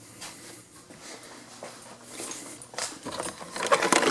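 Quiet at first, then from about two-thirds of the way in a quick run of clicks and rattles, like car interior parts being handled and pulled loose.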